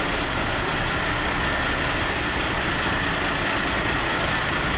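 A machine running steadily, with a light regular ticking of about three to four ticks a second.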